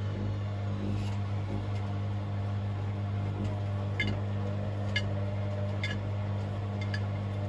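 Hoover DynamicNext washing machine running a wash cycle: a steady motor hum as the drum turns, with light ticks about once a second from about four seconds in.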